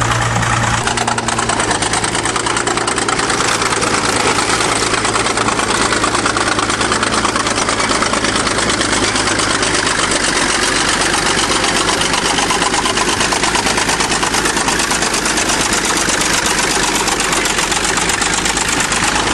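1953 International TD20 crawler bulldozer's diesel engine running steadily and loud, with rapid even firing pulses.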